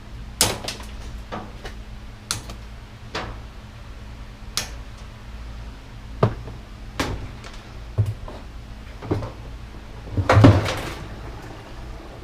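Scattered metal knocks and clicks from parts of a washer/dryer combo being handled and pried during disassembly, about a dozen at irregular intervals, with a louder rattling clatter about ten seconds in.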